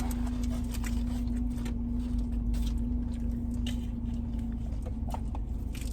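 Steady hum of a car's air conditioning running in the cabin, with a faint steady tone that fades near the end and scattered faint clicks and rustles.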